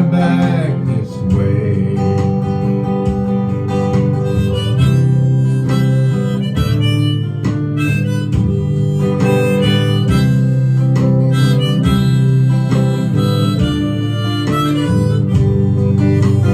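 Harmonica playing a melody over strummed acoustic guitar chords: an instrumental break in a folk song.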